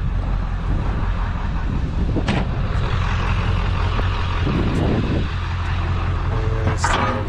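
Vehicle engine idling steadily with a low hum, with a single knock about two seconds in and a few clanks near the end.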